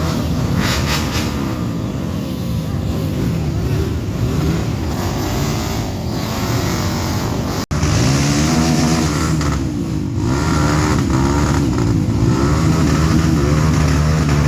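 Dirt-bike engines revving and running, their pitch rising and falling as the throttle opens and closes. There is a brief break about halfway through, then the engines carry on, steadier.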